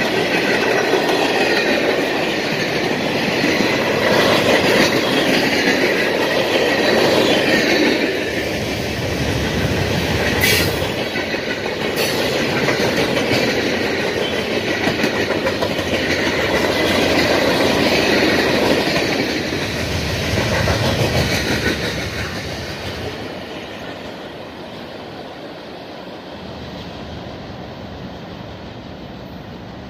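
Freight cars of a CSX manifest train rolling past close by, steel wheels running steadily on the rails, with two sharp knocks about ten and twelve seconds in. The sound dies away over the last several seconds as the end of the train passes.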